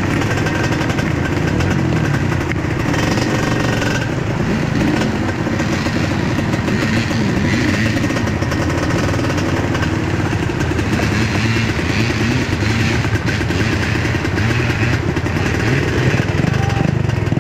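Suzuki TS125 trail motorcycle's single-cylinder two-stroke engine running after being started, its pitch rising and falling as the throttle is worked.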